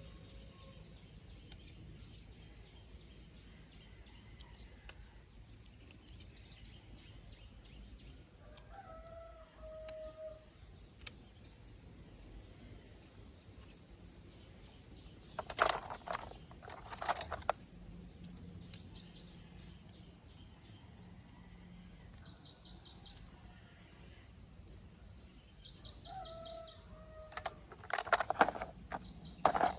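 Outdoor ambience: birds calling over a steady high-pitched whine, with a few sharp knocks about halfway through and a cluster near the end.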